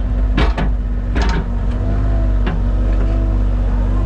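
Mini excavator's diesel engine running steadily, with a couple of short knocks about half a second and a second in.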